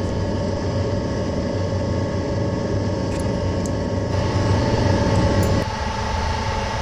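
Steady hum of shop machinery running, with a few faint light clicks. One tone in the hum drops out near the end.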